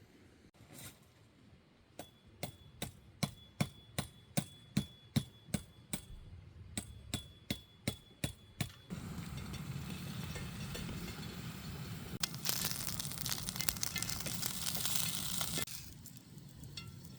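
A run of sharp, evenly spaced knocks, about two a second, with a faint metallic ring. Then a steady hiss that gets louder for about three seconds and stops abruptly.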